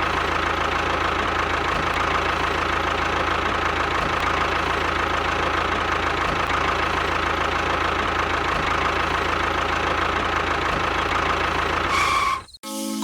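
Tractor engine idling steadily with an even knocking beat, cut off abruptly near the end.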